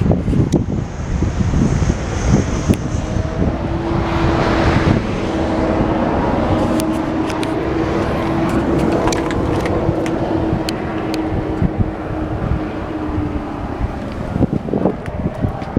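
Motor vehicle running, with a low rumble, a steady hum for several seconds in the middle, and scattered clicks.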